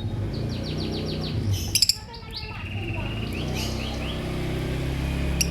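Lovebird chirping: a quick run of short, high chirps, a few sharp clicks about two seconds in, then another brief string of chirps, over a steady low background hum.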